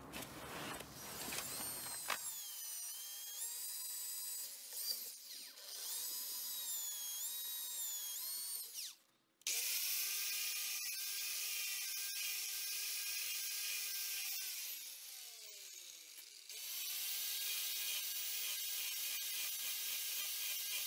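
Electric drill running in several long runs, its pitch rising and falling with the trigger. It stops briefly about nine seconds in, winds down again a few seconds later and starts up once more near the end: drilling a small hole in the caliper's anti-rattle clip mounting.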